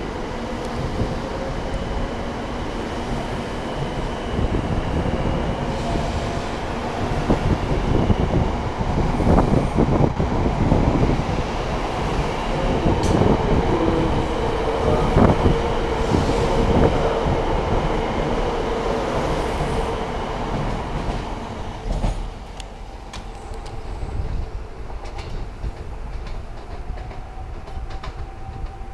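Shinkansen 700 series bullet train pulling out and picking up speed past the platform, its motors whining and its wheels clattering. It is loudest partway through and falls away sharply about three-quarters of the way in as the last cars go by, leaving a fading rumble.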